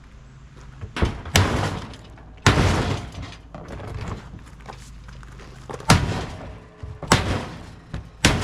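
Sheet metal of a scrap appliance banging and clattering as it is forced apart: six loud metallic bangs, each with a rattling tail, two about a second in and the last near the end.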